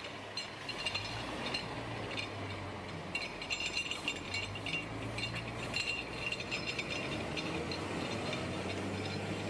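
Machinery running with a steady low hum under repeated metallic clinks and rattles, busiest in the middle.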